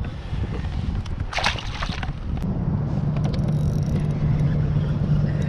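Water sloshing against a kayak, with a short splash about a second and a half in. About halfway through, a steady low motor hum starts and carries on.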